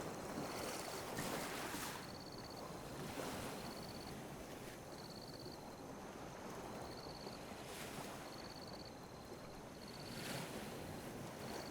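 Calm ocean waves lapping and washing on a beach, a gentle surge about a second in and two more near the end. A faint high chirp repeats about once a second over it.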